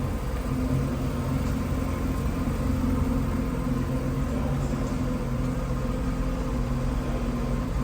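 Mazda RX-7 FD's twin-turbo 13B rotary engine idling steadily while it warms up after a cold start.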